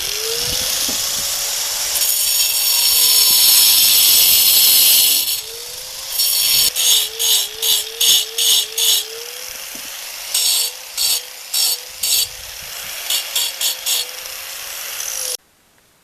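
Angle grinder cutting brick: a long continuous cut for about five seconds, then a run of short repeated cuts, with the motor's pitch dipping each time it takes the load. It stops abruptly about a second before the end.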